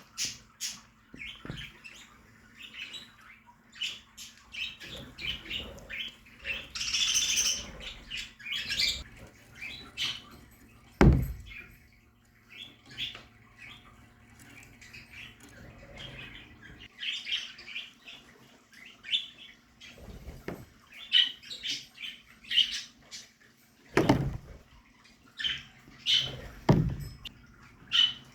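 A colony of budgerigars chirping and chattering continuously, many short overlapping calls. Three loud low thumps cut through, about a third of the way in and twice near the end.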